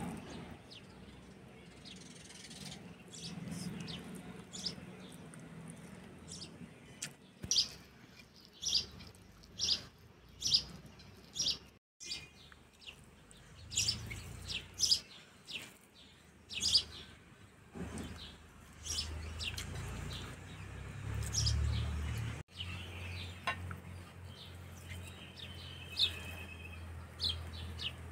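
Small birds chirping in short, high, repeated calls, with a low rumble rising in the second half.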